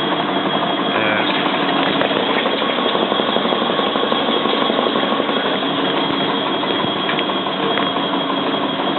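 Bosch WFF2000 front-loading washing machine spinning an unbalanced load, running steadily with a dense rattle as the cabinet rocks. The machine is not level, which the owner puts down to a front foot needing adjustment.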